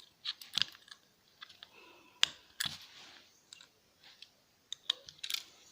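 Irregular light clicks and taps from small parts of a disassembled laptop hard drive being handled and worked apart by hand, about half a dozen spread unevenly.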